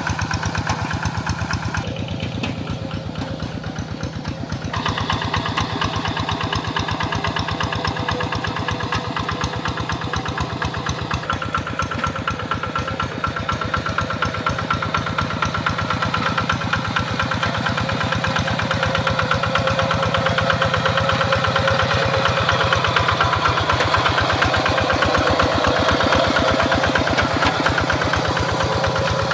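Tractor engine running steadily with a fast, even firing beat. The sound shifts a few seconds in and grows louder over the second half.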